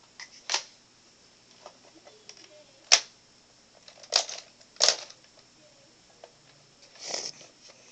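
Plastic clicks and clacks of a Nerf blaster being handled and loaded: about five sharp clicks at uneven intervals, with a few fainter ticks between.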